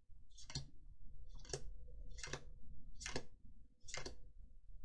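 Magic: The Gathering cards being flicked through one at a time, a short papery snap about every three-quarters of a second.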